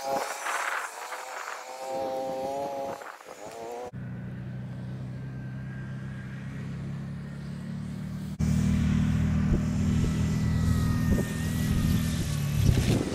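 Electric motor and propeller of an E-flite Draco RC plane whining, its pitch rising and falling with the throttle. About four seconds in, this gives way suddenly to a steady low rumble of strong wind on the microphone, which gets louder again about eight seconds in while a faint motor tone carries on above it.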